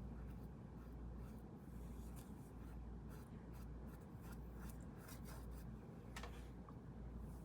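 Faint paintbrush strokes scrubbing colour onto a canvas, with scattered light ticks, over a steady low hum.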